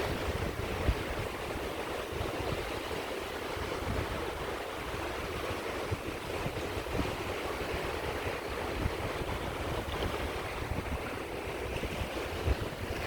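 Sea waves washing onto a shore: a steady, continuous wash of surf.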